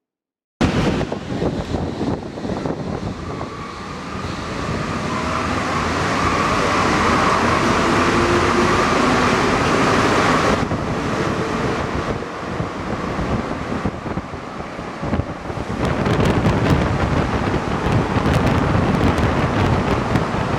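Santiago Metro NS-88 rubber-tyred train running between stations: a steady rush of running noise with a whine that stops abruptly about halfway through, then a dense rattle of clicks in the last few seconds.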